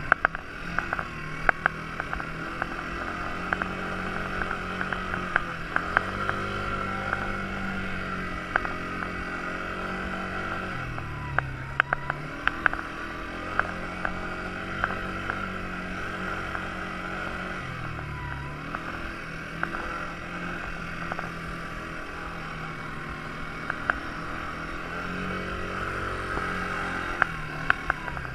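Quad bike engine running steadily, its note dropping and picking up again a few times as the throttle eases off and opens. Frequent sharp clicks and knocks sound over it.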